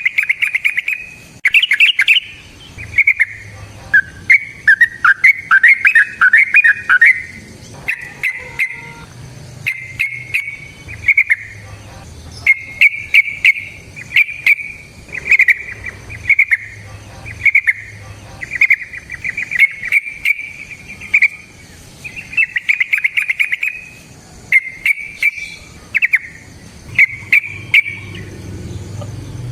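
Yellow-vented bulbul (trucukan) singing: short phrases of rapid notes repeated one after another with brief gaps.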